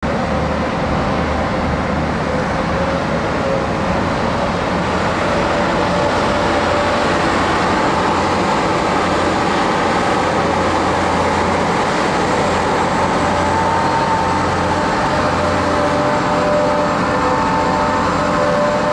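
Steady drone of heavy road vehicles and traffic, a continuous low engine rumble with road noise and no sudden events.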